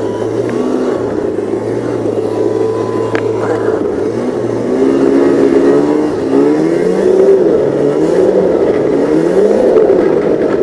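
Snowmobile engine running under throttle, steadier at first, then louder from about halfway through, revving up and down several times as the sled runs over near-bare, snow-thin ground.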